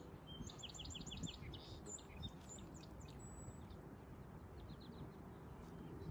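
Small birds chirping: a rapid run of about eight short high chirps in the first second and a half, then scattered chirps, over a faint low background rumble.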